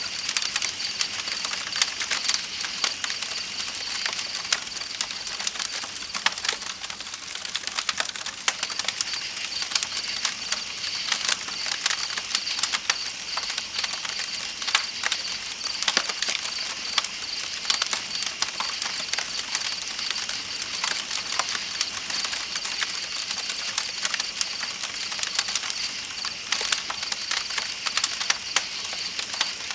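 Campfire crackling with irregular sharp pops, over the steady high chirring of night insects and the even rush of flowing river water.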